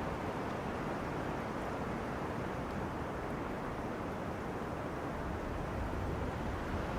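Wind rustling through tree crowns: a steady rushing noise, with a low rumble near the end.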